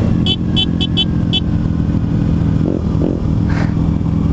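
Kawasaki Ninja 300 parallel-twin engine running steadily under the rider. Five short high chirps sound over it in the first second and a half.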